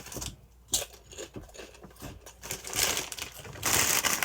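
A plastic chip bag crinkling and crackling as it is handled, in a run of sharp clicks, with a louder rustle near the end.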